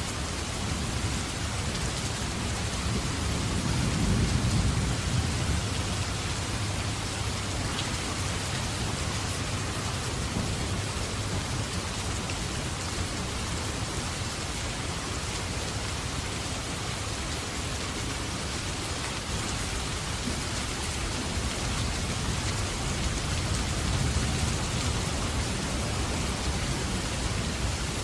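Steady heavy rain falling, with a low rumble swelling up twice, about four seconds in and again near the end.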